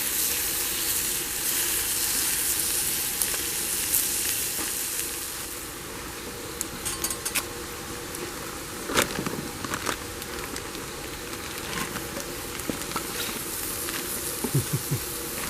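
Food sizzling as it fries over a campfire, a steady hiss that eases off after about five seconds, with a few sharp clicks and taps in the second half.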